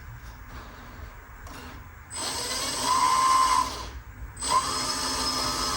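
Electric drive motor and gearbox of a 1/14 scale RC dump truck whining in two runs of about a second and a half each, spinning up and back down.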